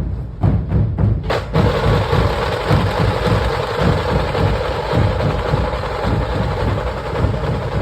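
A dhol-tasha troupe drumming: massed dhol barrel drums beat a fast, driving rhythm. About a second and a half in, the tasha drums break into a dense, continuous high rattle over them.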